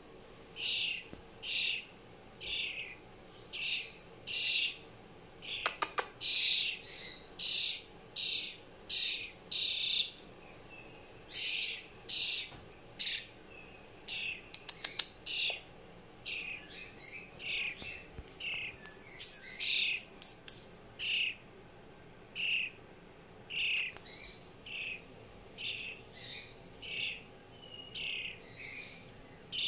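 Fledgling bird giving a long series of short, high begging calls, about one to two a second, as it is hand-fed. A few quick sharp clicks come about six seconds in and again around fifteen seconds in.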